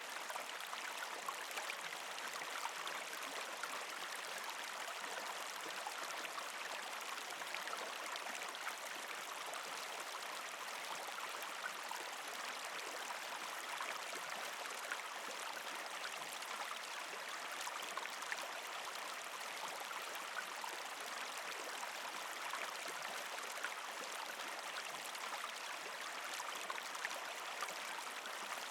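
A partially frozen creek flowing over rocks: a steady rush of water with many small splashes and trickling clicks.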